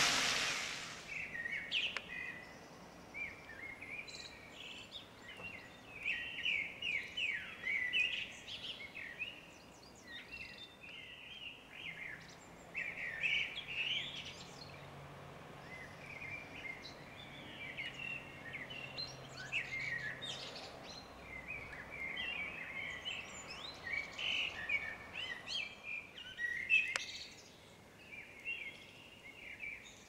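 Small birds chirping and twittering in quick clusters of short high calls, repeating on and off. A faint, steady low engine hum from a car on the street sits under them for several seconds in the middle.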